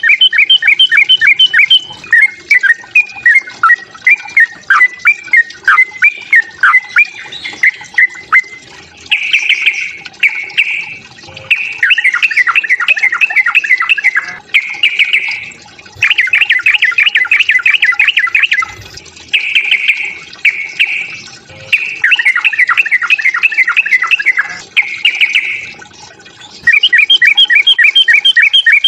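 Yellow-vented bulbul (trucukan) giving its aggressive fighting song: loud bursts of rapid, chattering notes, one after another, with short pauses between the phrases.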